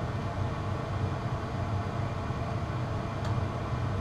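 Steady low hum of a running furnace blower, with one faint click about three seconds in.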